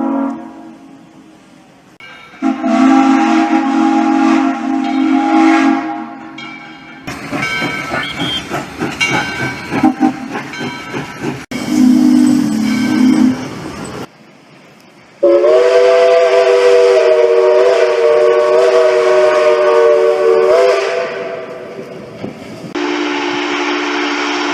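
Steam locomotive whistles from several different engines, blown one after another as separate clips cut together. The blasts are steady and last from about a second and a half to six seconds, the longest and loudest coming about halfway through, with steam hiss and train noise in between.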